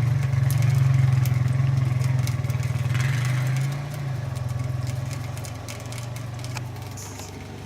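Honda 420 four-wheeler engine running steadily, growing fainter after about four seconds.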